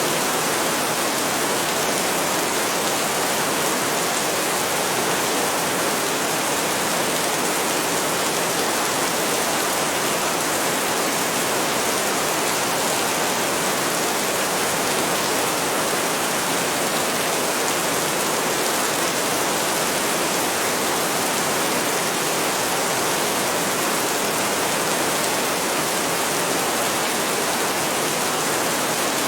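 Heavy rain falling steadily, an even hiss with no thunder or other distinct events.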